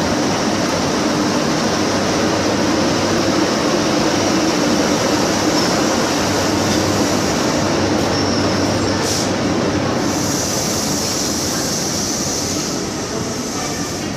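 Class 90 electric locomotive 90012 and its coaches passing slowly alongside the platform: a steady, loud running noise of the locomotive with its wheels on the rails, easing slightly near the end as the coaches follow the locomotive past.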